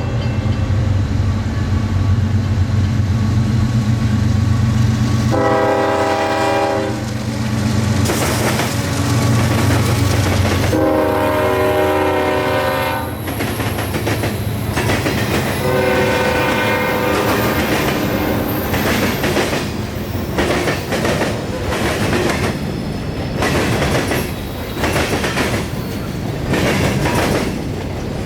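CSX mixed freight train passing: the diesel locomotives rumble by while the air horn sounds three blasts, the second about 11 seconds in and the last about 16 seconds in. Then the freight cars roll past with a steady clickety-clack of wheels over the rail joints.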